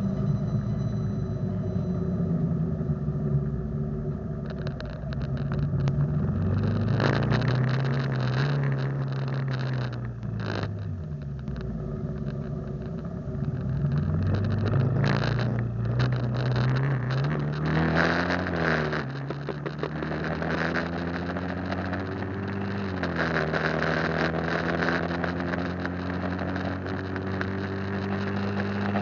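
Motorcycle engine pulling through the gears, its pitch climbing steadily and then dropping suddenly at each shift, about three times.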